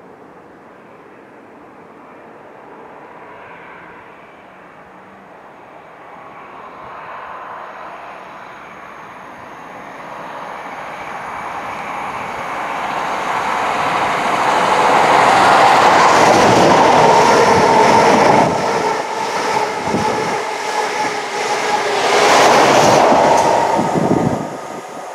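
Diesel High Speed Train with Class 43 power cars approaching at about 100 mph and passing close by. The noise builds over several seconds to a loud peak as the leading power car goes under, then the wheels clatter in a quick rhythm, with a second loud peak near the end before it drops away sharply.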